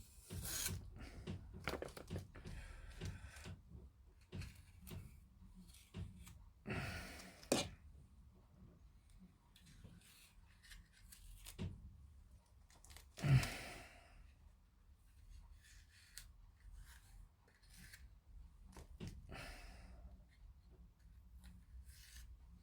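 Masking tape being peeled off a plastic model kit fuselage in short tearing rips, among clicks and taps of the plastic parts being handled; a few rips stand out, the loudest about thirteen seconds in.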